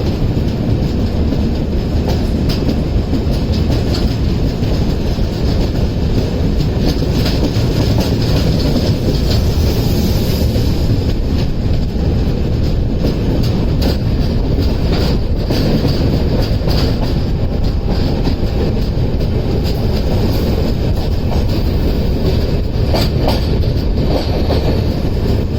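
Passenger express train running, a steady loud rumble of the coaches with the wheels clicking over the rail joints.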